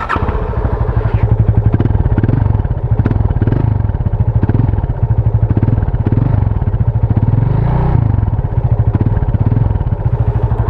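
Yamaha FZ25's 249 cc air-cooled single-cylinder engine running steadily in neutral, its exhaust note close up with even firing pulses and slight rhythmic swells.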